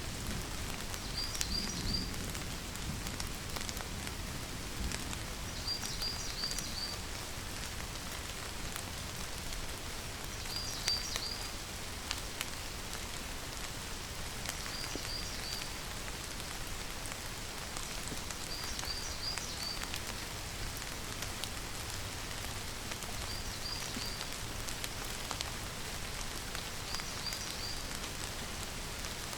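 Steady rainfall with a constant patter. Short bursts of three or four high chirps recur roughly every four seconds over the rain.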